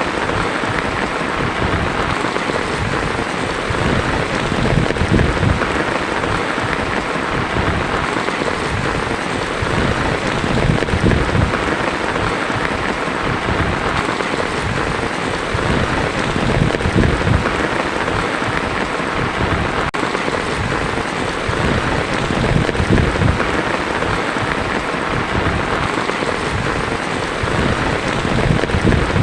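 Heavy rain drumming steadily on a tin roof in a dense, even patter. A low rumble swells and fades every five or six seconds underneath it.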